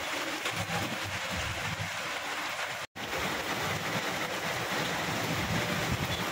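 Heavy rain pouring down in strong wind, a steady hiss with gusty rumbling underneath. A split-second dropout comes about three seconds in.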